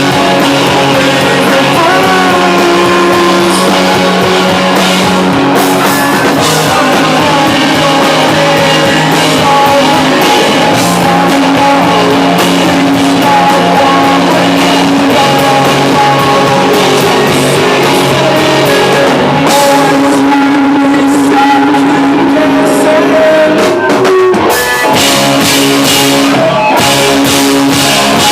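Rock band playing loudly, with guitar, drum kit and singing, and a brief break in the playing near the end.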